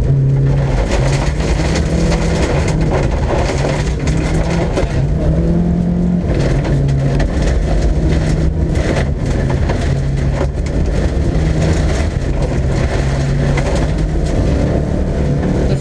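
Mercedes-Benz 190 diesel engine driven hard, heard from inside the cabin, its note stepping up and down again and again. Loose gravel crackles and rattles under the car throughout.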